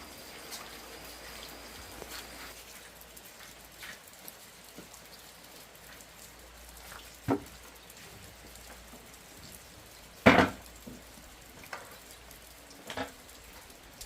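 A few sharp knocks over a faint steady hiss. The loudest knock comes about ten seconds in, with two weaker ones a few seconds before and after it.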